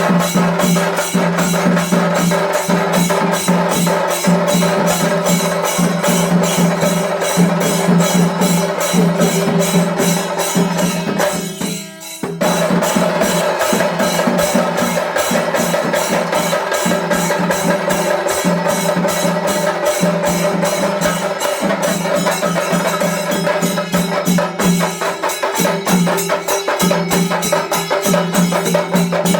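Chenda melam: Kerala chenda drums beaten in fast, dense strokes, with a steady low tone running underneath. It drops out briefly about twelve seconds in, then resumes.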